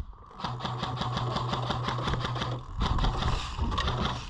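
Airsoft electric light machine gun firing on full auto in two long bursts, its motor and gearbox giving a steady hum under rapid, evenly spaced clacks of about eight a second.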